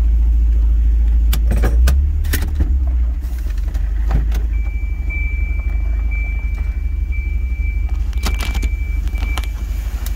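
Volvo 940 turbo's turbocharged four-cylinder engine idling, heard from inside the cabin as a heavy low rumble that turns choppy and uneven about two seconds in; the owner puts the rough running down to a misfire. Clicks and a jangle of keys come twice, and from about halfway a high warning tone sounds with short breaks.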